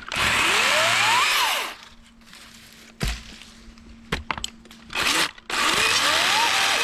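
DeWalt 60V 14-inch top-handle battery chainsaw run up twice: each time the electric motor and chain whine rising in pitch for about a second and a half, then winding down. A single sharp knock comes between the two runs.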